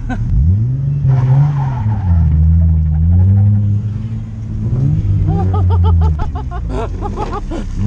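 Drift car engine revving up and down with tyres skidding and squealing, the squeal wavering in pitch between about five and seven seconds in.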